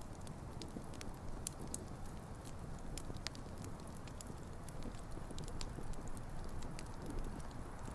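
Wood campfire burning, with irregular sharp crackles and pops from the burning logs over a steady low rumble of flames.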